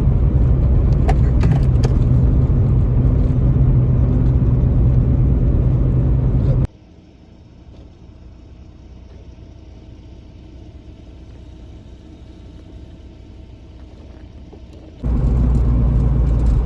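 Lada Priora on the move: steady engine and road rumble with a low hum. About seven seconds in it cuts abruptly to a much quieter faint hum, and the loud rumble returns suddenly near the end.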